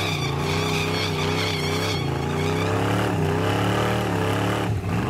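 Engines at a drag strip: a full-size SUV accelerating away down the track over a steady low engine drone, the pitch dipping and rising again near the end like a gear change.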